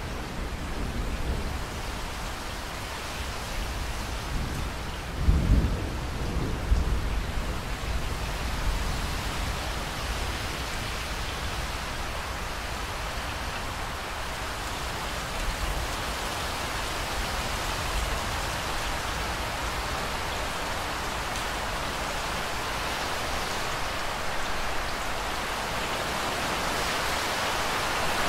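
Steady heavy rain, a continuous hiss of drops on surfaces. About five seconds in, a low rumble of thunder swells and fades over a couple of seconds.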